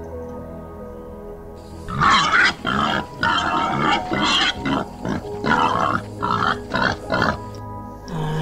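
Wild boar grunting in a rapid series of short grunts, starting about two seconds in, over soft background music.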